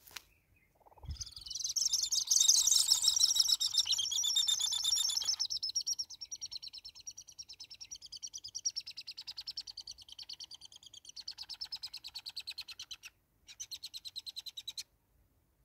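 A low thump about a second in, then a rapid, fast-repeating series of high chirping bird calls. The calls are loudest for the first few seconds, continue more quietly, break briefly, resume, and cut off abruptly near the end.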